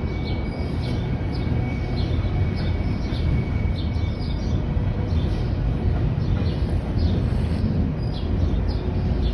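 Coal train's cars rolling past on the rails: a steady low rumble of wheels and cars that keeps an even level throughout.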